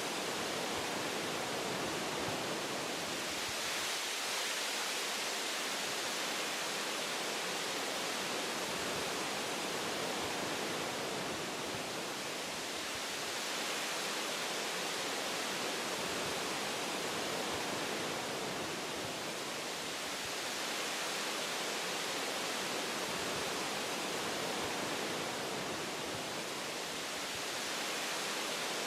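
Wind blowing through forest tree branches: a steady, even rush of leaf and branch noise that swells and eases gently every several seconds.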